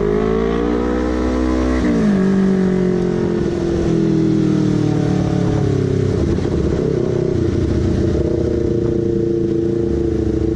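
Honda CBR250RR's parallel-twin engine and exhaust pulling hard with rising pitch. About two seconds in the pitch drops sharply at an upshift, and the bike then runs on at a steady cruising speed.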